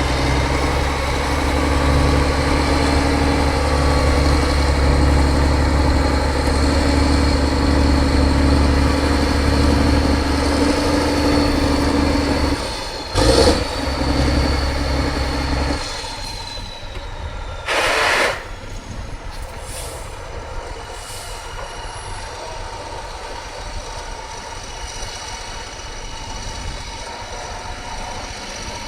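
Heavy trial truck's diesel engine running steadily, its deep engine note falling away about halfway through. There are two short bursts of air hiss, the first just before the drop and the second a couple of seconds after it.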